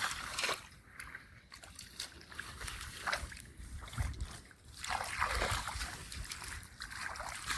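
Irregular splashing and sloshing in shallow muddy water, in short uneven bursts.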